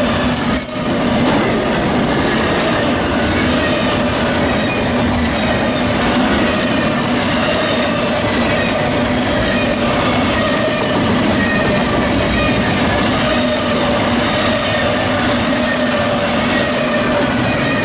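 Freight train rolling past: a loud, steady run of wheels on the rails, with a few steady squealing tones from the wheels over it.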